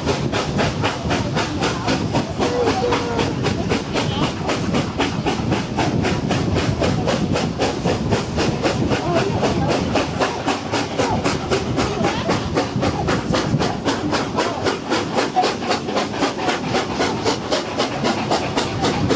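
Steam locomotive 3642 working under steam, its exhaust beats coming in an even rhythm of about four to five a second over a steady hiss of steam and running noise.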